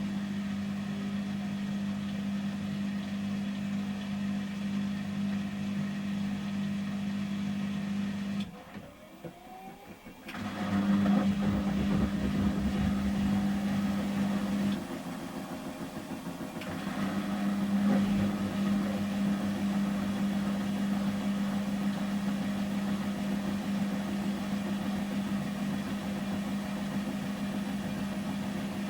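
Samsung front-loading washing machine in its intermediate 800 rpm spin: a steady motor and drum hum. About eight seconds in, the hum cuts out for a couple of seconds, then starts up again louder. It eases off briefly about halfway through and then runs steadily again.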